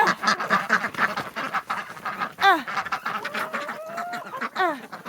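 A flock of ducks quacking loudly and continuously as they clamour for food, with two louder downward-sliding calls about two and a half and four and a half seconds in.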